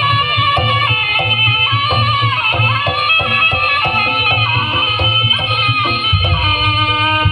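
Live Javanese gamelan music for jaranan horse-dance: a wavering reed-pipe melody over steady drum strokes and short metallophone notes. The drumming grows denser about six seconds in.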